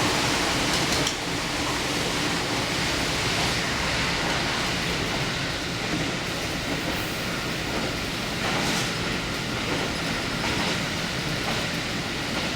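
Diesel railcar limited express running along the line, a steady rumble of wheels on rail with a few faint knocks from rail joints.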